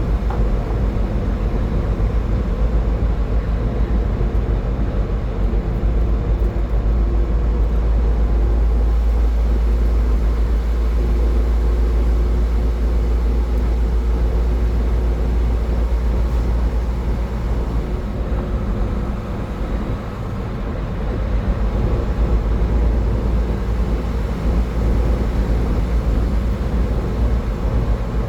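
A car driving at highway speed: steady low road and wind rumble that eases briefly about twenty seconds in.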